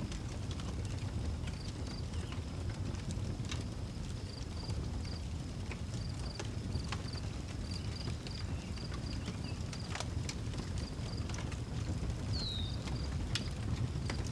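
Outdoor wood fire crackling, with scattered sharp pops over a low steady rumble, while crickets chirp in a steady run of short high pulses. A single short falling bird call comes about twelve seconds in.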